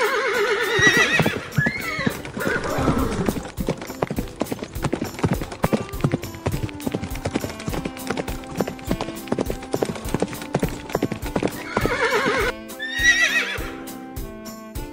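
Horse sound effects: a whinny at the start, then a steady run of hooves clip-clopping, then a second whinny near the end, all over background music.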